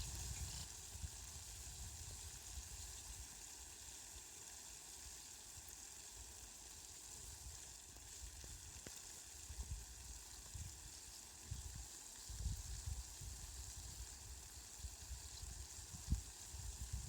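Rain falling: a steady, fine, even hiss, with irregular soft low rumbles that come and go, more of them in the second half.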